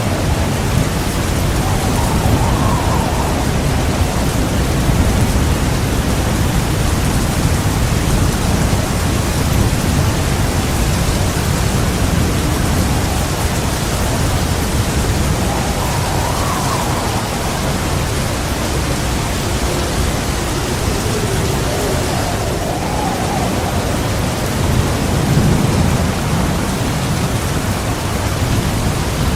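Heavy rain falling steadily, with low rolling thunder rumbling underneath and swelling a little near the end.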